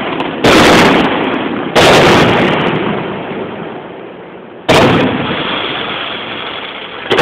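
Aerial firework shells bursting: three loud bangs, the second about a second after the first and the third about three seconds later, each trailing off in a long echo, with a shorter bang right at the end.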